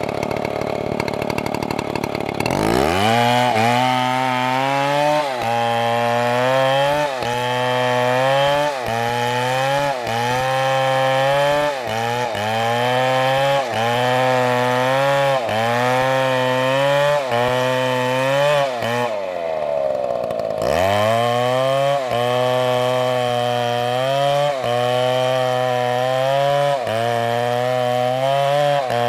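MS720 two-stroke chainsaw idling, then revved up about two seconds in and cutting into the tree. The engine note rises and sags in a steady rhythm about every second and a half as the saw works through the wood. Past the middle the revs drop away for about a second before the saw is throttled back up and cutting resumes.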